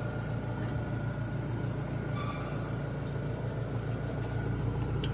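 Commercial automatic noodle-making machine running with a steady motor hum.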